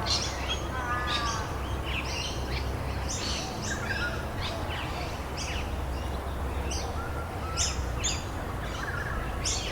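Several songbirds chirping and calling in quick, overlapping short notes, over a steady low rumble.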